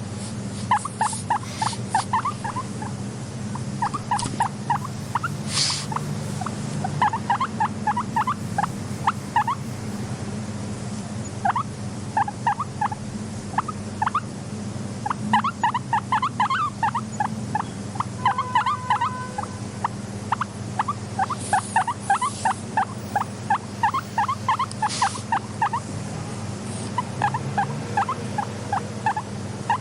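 Guinea pig squeaking in quick runs of short, high squeaks with brief pauses between runs, over a steady low hum.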